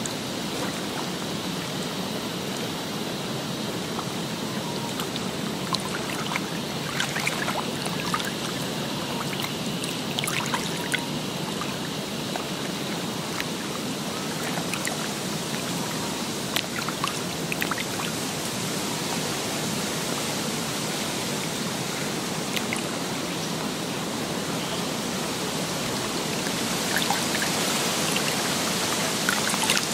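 Steady rushing water with scattered small clicks and crackles, a little louder near the end.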